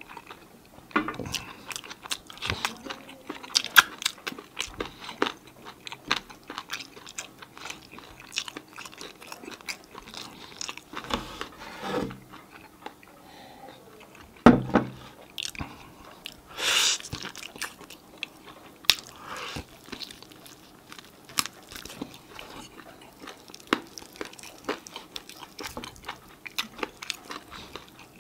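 Close-miked chewing and biting on sauced chicken wings: many small wet clicks and crunches as meat is pulled off the bones, with a few louder knocks.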